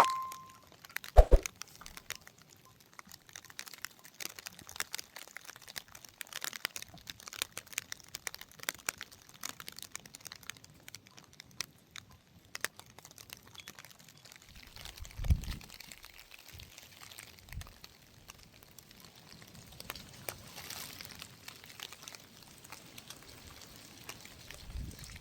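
Irregular crinkling and light crackling, with a dull thump about halfway through.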